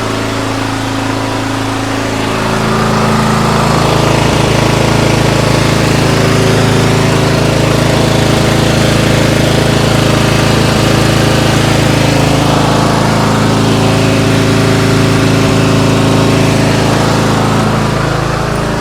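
The 13.5 hp overhead-valve Briggs & Stratton engine of an MTD White lawn tractor running steadily on its first run in years. It grows louder about three seconds in and holds steady after that.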